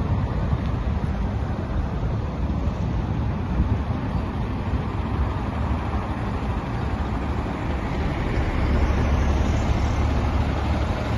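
Scania P410 tipper truck's 13-litre straight-six diesel engine running with a steady low rumble, growing a little louder about eight seconds in.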